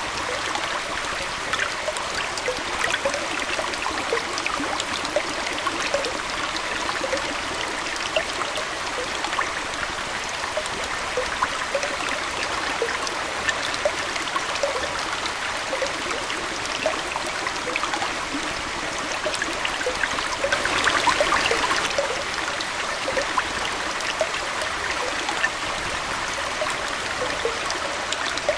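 Aquarium water trickling and flowing steadily, with many small plinks, swelling louder for a moment about three-quarters of the way through.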